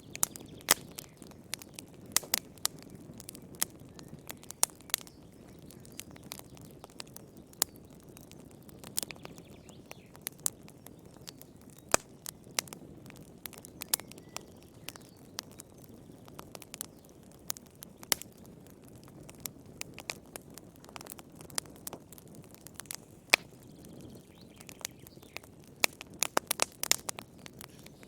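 Wood fire crackling in a fireplace: sharp, irregular pops and snaps over a low steady rush of burning, with a quick flurry of pops near the end.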